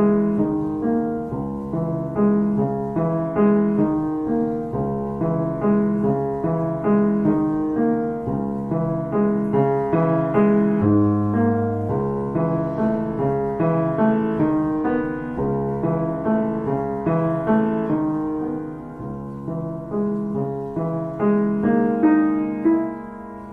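Gentle solo piano music: a steady flow of soft notes, about two a second, with a long low note held about eleven seconds in, fading out near the end.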